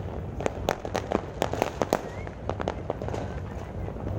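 Fireworks and firecrackers going off, a rapid irregular string of sharp pops and bangs, several a second, over a steady low rumble.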